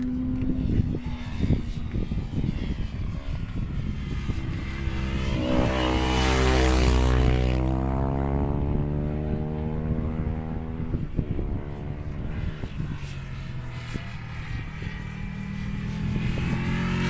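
An engine passes by slowly, its drone swelling to a peak a few seconds in and then fading, its pitch bending over several seconds. Heavy wind rumble on the microphone runs beneath it.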